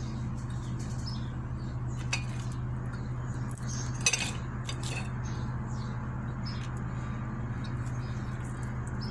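Eating noises: chewing and small wet mouth sounds, with two sharp clinks of cutlery against a plate, about two seconds in and about four seconds in, over a steady low hum.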